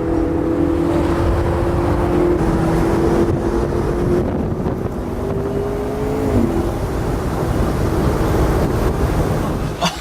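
Supercar engine running hard at speed, with heavy road and wind noise. The engine note climbs slowly and then drops about six seconds in.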